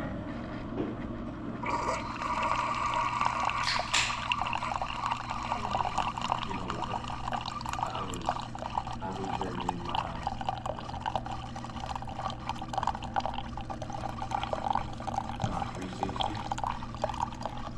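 Coffee running into a cup: steady trickling and dripping liquid that starts about two seconds in, over a steady low hum.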